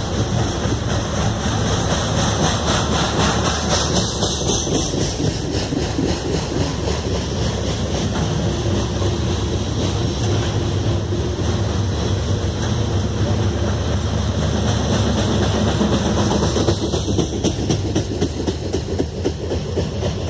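Freight train's container cars rolling past, the steel wheels clattering steadily over the rail joints.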